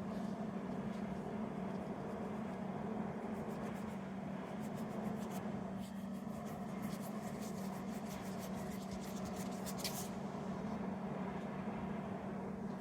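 A quick run of light, scratchy clicks over a steady low hum, with one sharper click about ten seconds in.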